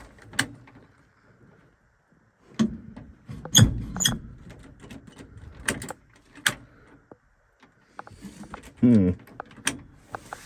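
Clicks, knocks and clunks from handling the controls of an old Ford F100's cab, with a short falling creak about nine seconds in.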